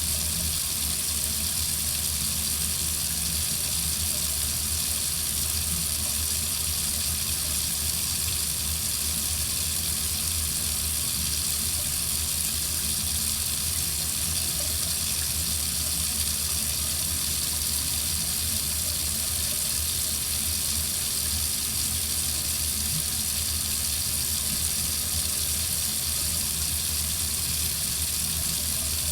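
Water running steadily from a faucet into a sink, an even, unbroken rush of water.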